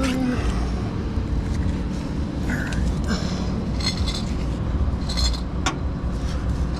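Metal tow hooks clinking and rattling as they are handled, a few sharp clinks in the second half, over a steady low rumble.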